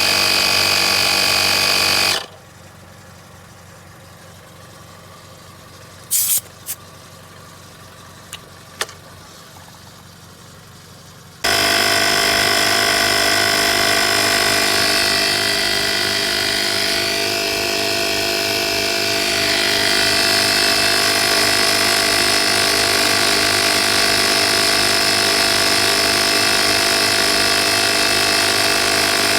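Small portable 12V piston air compressor running with a steady mechanical hum. It shuts off about two seconds in, a few clicks follow, and it starts again about nine seconds later and keeps running.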